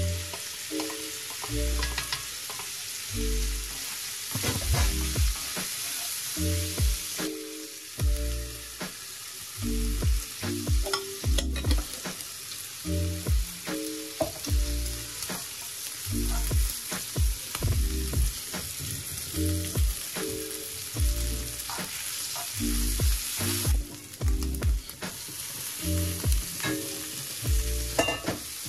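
Food sizzling in a hot pan as it is stir-fried, with a spatula knocking against the pan now and then. Background music with a low melody plays along.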